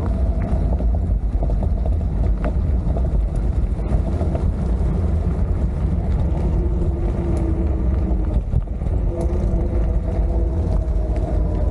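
Steady wind rumble on the action camera's microphone while riding a bike, with a faint wavering hum from the ride underneath.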